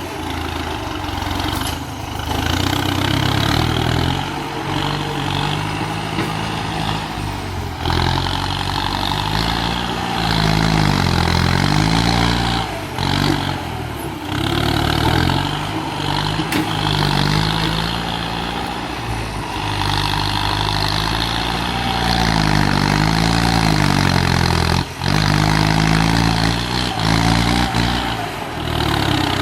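Kubota tractor engine running, its speed rising and falling several times.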